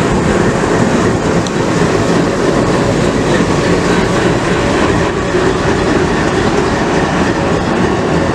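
Train running on the rails: a steady, loud rumble and rattle of wheels and coaches.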